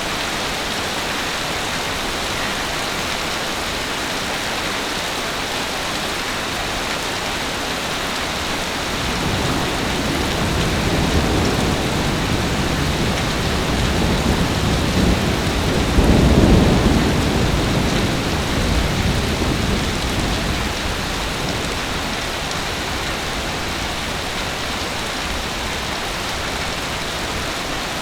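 Heavy rain falling steadily, with a long low roll of thunder that builds about a third of the way in, peaks past the middle and fades away.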